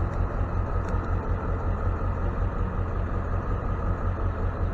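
Ford F-550 tow truck's engine idling, a steady low rumble.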